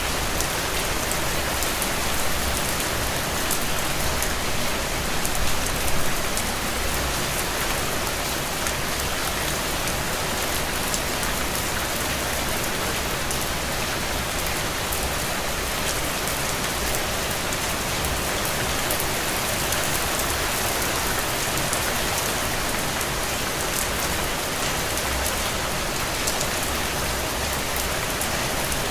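Steady rain falling on a window pane, a dense even hiss flecked with the ticks of single drops.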